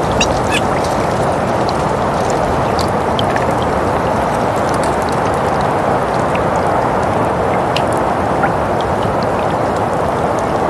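Steady winter wind ambience, an even rushing noise, with scattered light crackles and clicks over it.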